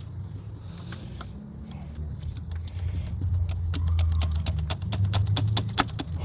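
2002 Honda CR-V's 2.4-litre four-cylinder engine running at a rough idle, its low rumble swelling up partway through, with a rapid ticking of about five clicks a second over the second half; the sound cuts off suddenly at the end. This uneven, surging idle is the fault under diagnosis, which the owner blames on the idle air control valve.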